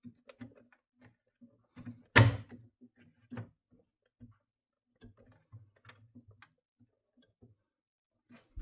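Scattered knocks and clicks, the loudest a single knock about two seconds in, with a faint low hum coming and going between them.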